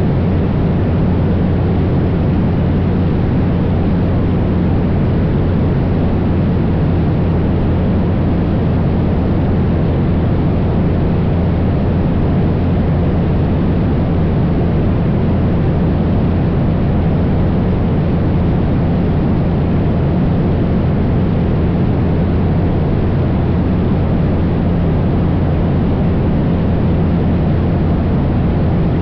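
Cessna 172's piston engine and propeller running steadily in flight, a loud even drone that does not change in pitch or level.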